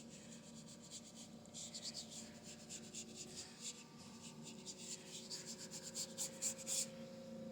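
Paintbrush rubbing acrylic paint onto a canvas in many quick, short scratchy strokes, going over the same area repeatedly, with a faint steady hum underneath.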